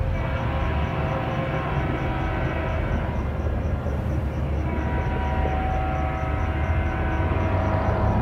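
A train running past the station platform: a steady rumble with several thin, high tones drawn out over it.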